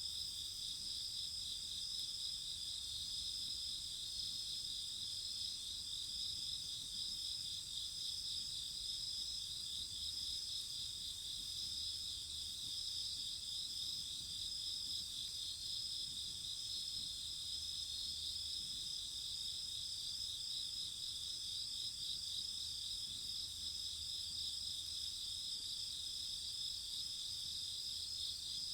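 A steady night chorus of crickets, several insects trilling at different pitches in an unbroken, finely pulsing drone.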